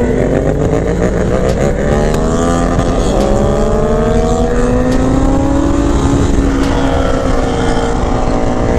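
Motorcycle engine pulling under load while riding. Its pitch dips at a gear change about three seconds in, then climbs steadily and eases off slightly near the end, over a steady low rumble.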